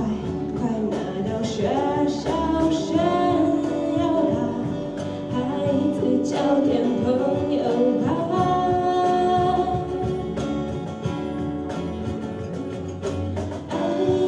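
Live band music: singing over guitars, with regular drum hits.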